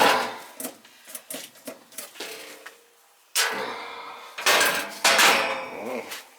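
Sheet-metal clanks and rattles from the gas furnace's cabinet and parts being handled: a run of sharp knocks, with louder clattering about halfway through and again near the end, some with a brief metallic ring.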